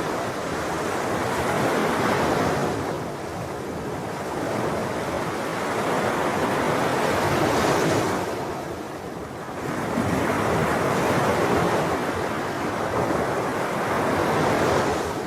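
Sea waves breaking and washing on the shore, a rushing surge that swells and ebbs every few seconds, with about three breakers.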